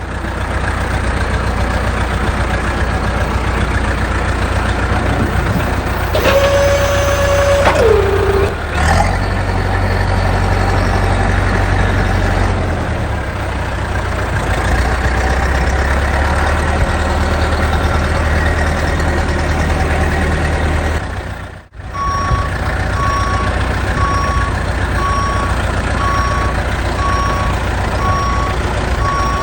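Truck engine running with a steady low drone. A held horn-like tone steps down in pitch about a quarter of the way in. After a brief drop-out about two-thirds through, a reversing alarm beeps a little faster than once a second.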